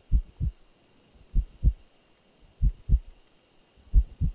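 Heartbeat sound effect: slow paired low thumps, lub-dub, about once every 1.25 seconds, with a faint high steady tone behind them.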